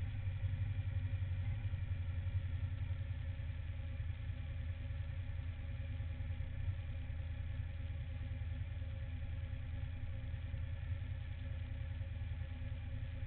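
Suzuki SV1000N's 996 cc V-twin engine idling steadily with the bike standing still.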